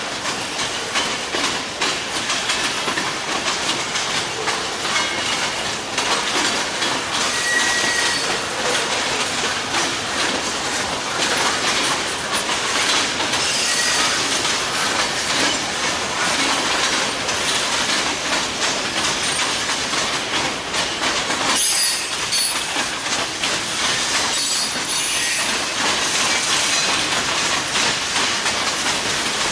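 Freight train cars rolling past on the rails, wheels clacking over the joints, with brief high wheel squeals now and then.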